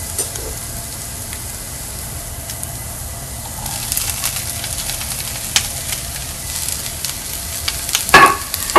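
Diced carrots sizzling in oil in a frying pan. About three and a half seconds in, the sizzle grows louder and crackles as chopped green bell pepper drops into the hot oil. There is a sharp knock near the end.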